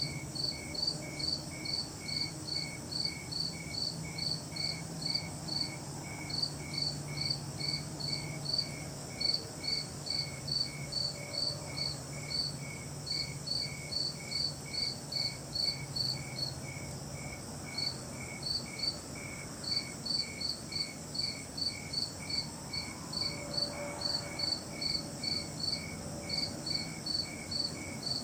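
Crickets chirping in a steady rhythm, about two chirps a second with a few brief pauses, over a continuous high insect drone and a faint low hum.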